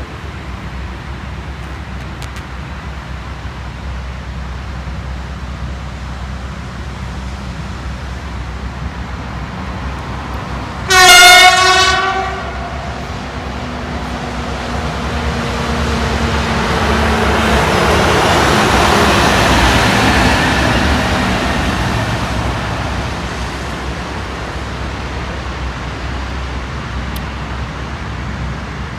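A train sounds one loud horn blast lasting about a second, then passes by: the noise of the train swells, peaks about twenty seconds in and fades away.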